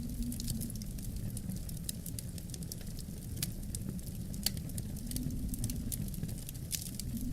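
Wood fire crackling with many irregular sharp pops, over a steady low rumble of wind that swells and eases.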